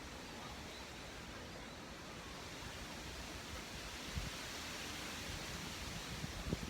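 Wind rustling through maple leaves, a steady hiss that swells a little through the middle, with a few short low thumps, the strongest near the end.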